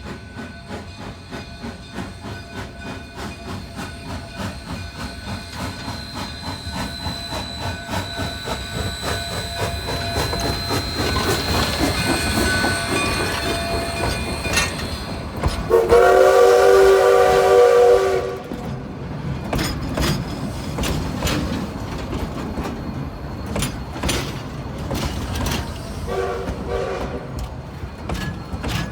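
D&RGW K36 No. 487, a coal-fired narrow-gauge 2-8-2 steam locomotive, working hard with a steady rhythm of exhaust chuffs that grows louder as it approaches. About sixteen seconds in it sounds one long chime-whistle blast of about two and a half seconds. A shorter, fainter blast follows near the end.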